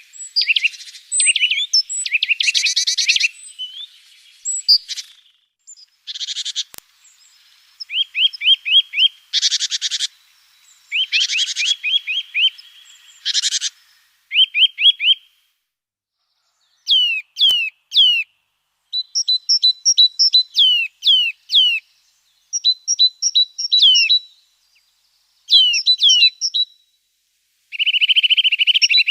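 Small songbirds singing: a series of fast trills and buzzy phrases, then repeated quick down-slurred whistled notes mixed with short high notes from about halfway through.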